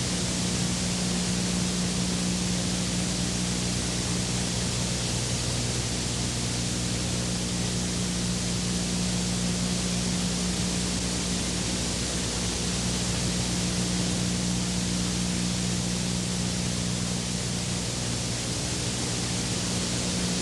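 Steady hiss with a constant low electrical hum underneath, unchanging throughout.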